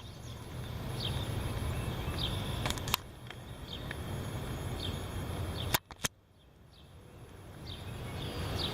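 Wind gusting over the microphone: a low rumble that swells, dies away about six seconds in and then builds again. A bird chirps repeatedly over it, and there are a few sharp clicks.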